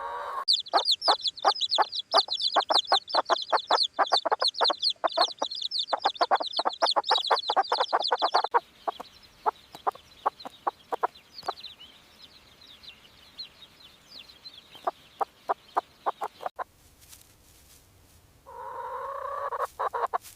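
Domestic chicks peeping rapidly in quick high, falling notes over a hen's clucking. The calling is dense for about eight seconds, then thins to scattered peeps and clucks.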